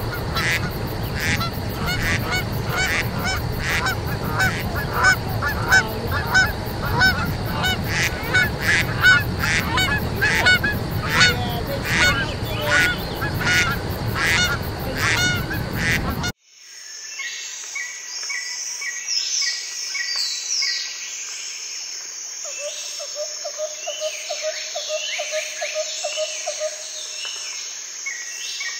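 Canada geese honking over and over at close range, over a steady low rumble. After an abrupt cut about sixteen seconds in, small woodland birds sing, with chirps and a long trill.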